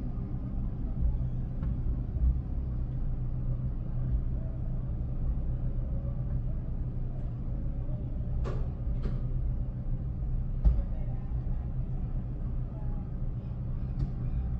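A steady low engine rumble, with a few short sharp clicks in its second half.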